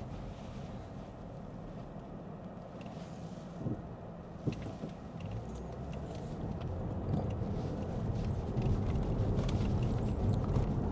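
Road and tyre noise inside a moving Lexus ES 350 sedan's cabin: a steady low rumble that grows a little louder toward the end, with a couple of faint knocks about four seconds in.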